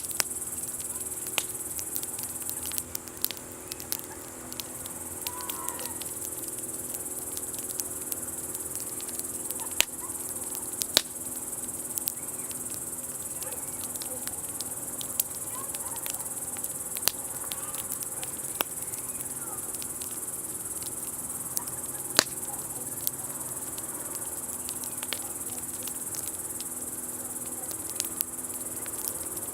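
Crickets chirring steadily in a high, even band, with sharp irregular pops and crackles from a burning wood campfire.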